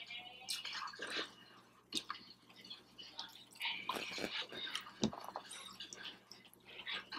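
Close-miked eating sounds: wet mouth clicks and chewing of a fried egg roll, coming as scattered short clicks and soft crunchy patches.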